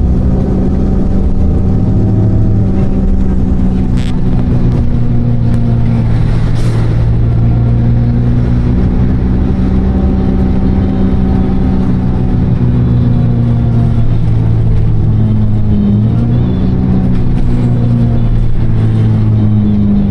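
City bus engine droning steadily, heard from inside the bus, its pitch shifting a little as the bus speeds up and slows.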